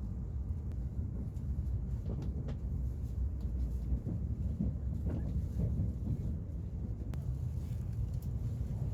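Steady low rumble of a Shinkansen bullet train running at low speed, heard from inside the passenger car.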